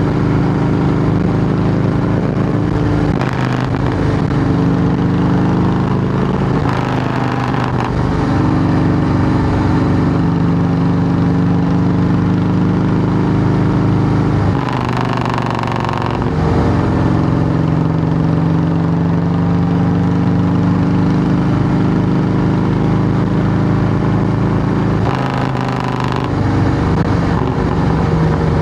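2008 Harley-Davidson Softail Heritage Classic's V-twin engine running loud through Samson fishtail true-dual exhaust pipes. Its steady note breaks off briefly and settles at a new pitch about four times.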